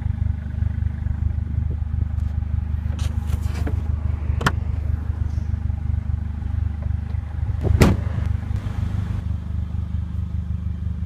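Steady low rumble with a few light clicks, then a single louder thump about eight seconds in, from the CLA45's trunk floor cover being lifted and handled over the underfloor storage compartment.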